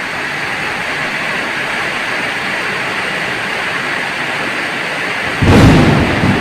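Heavy rain falling in a steady hiss, then a sudden loud, deep clap of thunder about five seconds in that rumbles on to the end.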